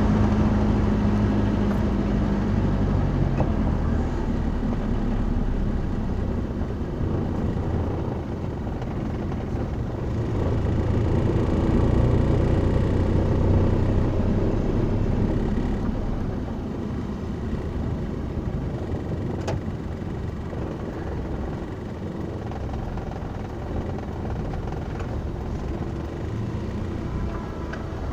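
Road vehicle running, a continuous low rumble of engine and road noise that swells about halfway through and then settles a little quieter.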